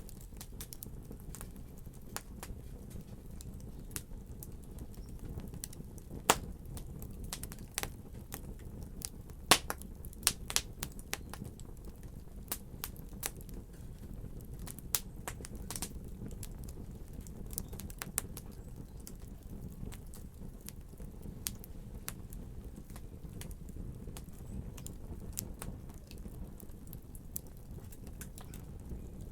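Wood fire burning in a fireplace: a steady low rumble with frequent sharp crackles and pops, the loudest a cluster about a third of the way in.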